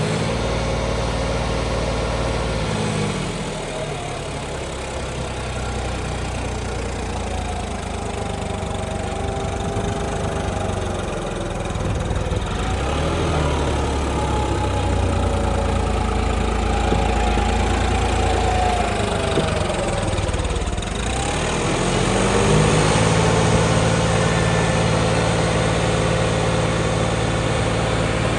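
Tractor diesel engine running, its pitch dropping and climbing back several times as it is revved down and up.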